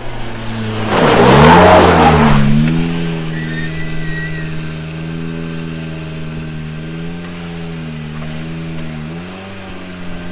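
Rally car engine at full speed, passing close with a loud rush of noise and a dip in pitch about a second in, then a steady high engine note as it drives on, with short dips near the end.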